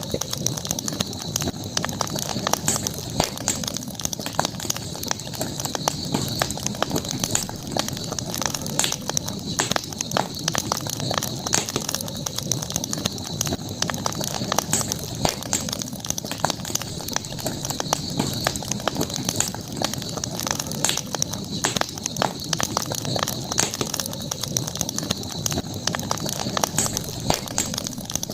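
Campfire crackling and popping irregularly over a steady hiss, with a constant high-pitched tone running underneath.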